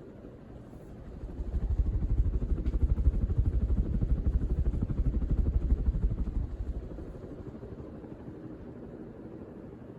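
Downdraft from a Hunter Original ceiling fan running on high, buffeting the microphone: a fluttering low rumble that swells about a second and a half in and dies away after about seven seconds, leaving a steadier, quieter rush of moving air.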